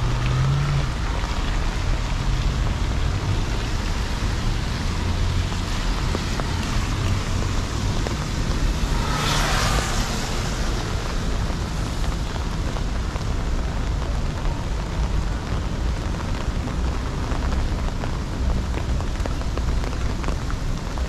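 Light rain falling and city traffic moving on wet streets, a steady hiss with the low rumble of engines. About nine seconds in, a louder hiss swells and fades as a vehicle passes close.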